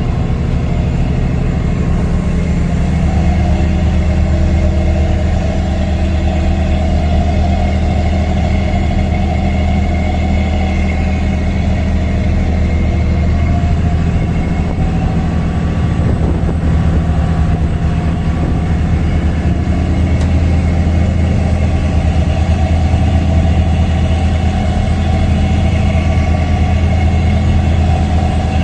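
An engine drone, steady and low, holding the same pitch.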